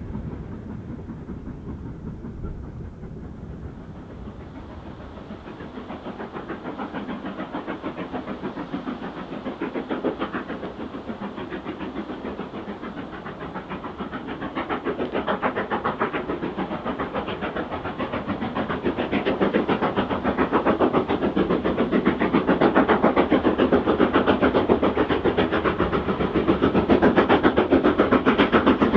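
Steam locomotive working under power, its exhaust beats in a fast, even rhythm growing steadily louder as it approaches.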